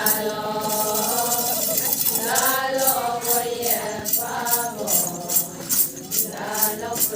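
Adi Ponung song: a group of voices chanting in unison, joined about two and a half seconds in by a jingling metal rattle shaken in a steady beat of about three strokes a second.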